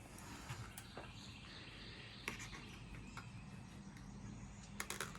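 Quiet outdoor background with a few light clicks and taps of small objects being handled, including a quick cluster near the end.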